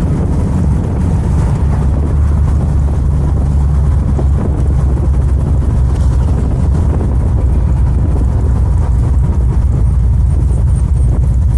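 The 7.0-litre LS7 V8 of an AK Cobra replica running steadily at low revs, heard from inside the car, with a deep, even drone.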